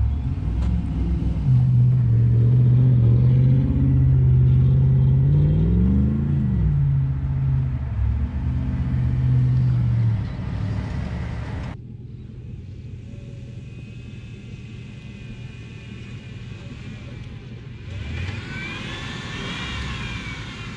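Chevy pickup truck engine running loudly, with one rev that rises and falls about six seconds in. About twelve seconds in the sound cuts abruptly to a quieter, muffled engine running at a steady pace.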